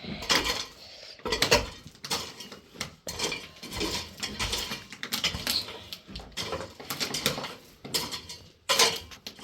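Irregular clattering of hard objects: sharp clinks and knocks, several a second, with no steady rhythm.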